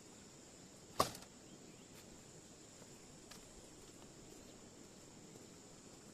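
A single sharp knock about a second in, followed by a couple of faint clicks, over a steady high-pitched hum.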